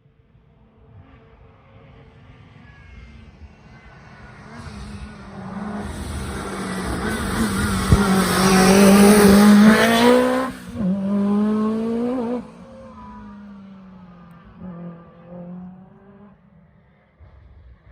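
Rally car engine at high revs as the car approaches, passes close and drives away. The note builds for several seconds, breaks off briefly at its loudest with a short lift off the throttle, picks up again, then fades into the distance.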